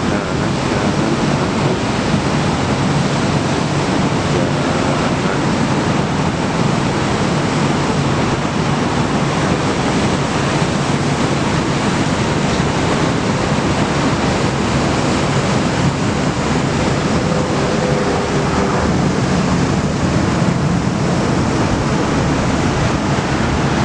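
Strong wind blowing across the microphone: a loud, steady noise with no breaks.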